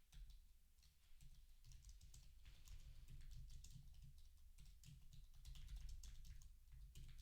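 Typing on a computer keyboard: a faint, quick run of key clicks, with a few short pauses between bursts.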